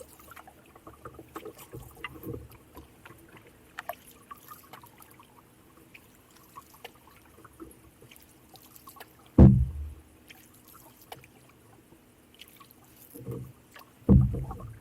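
Canoe paddling: a few low paddle swishes and thumps a few seconds apart, the loudest about halfway through, with faint small ticks of water in between.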